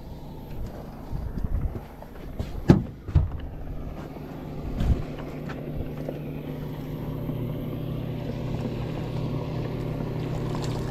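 A few sharp knocks and handling sounds in the boat, then a boat motor running with a steady hum that grows a little louder from about halfway.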